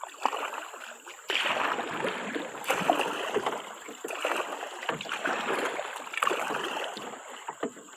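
Kayak paddle strokes splashing in the water, a surge of rushing and splashing about once a second as the kayak is paddled hard.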